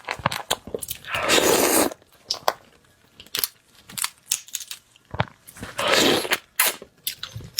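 Close-miked eating of shrimp: crisp crunches and cracks of shell with wet chewing. Two longer, louder bursts of noise come at about a second in and again near six seconds.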